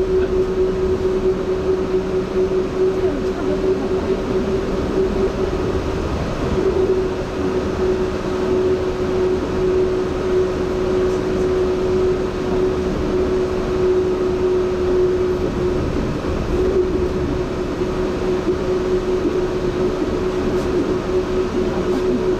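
Running noise of a Yurikamome rubber-tyred automated guideway train travelling along its elevated concrete guideway: a steady rumble with a hum held at one pitch.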